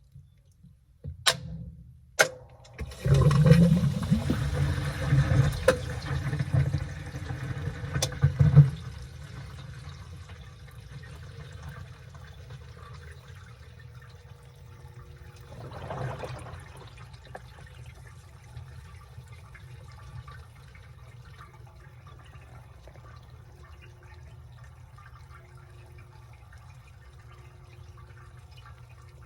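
Washing machine mid-wash. After a short lull and two clicks, water rushes and sloshes loudly in the drum for about six seconds, then stops abruptly. A steady low hum with faint trickling water follows.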